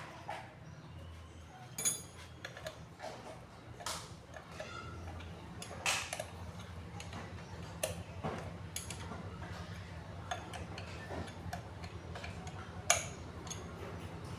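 Small metal clicks and taps from hand tools and parts being handled during the water pump's bearing and seal work. Sharper strikes come about every two seconds for a while, and one more comes near the end, over a low steady hum.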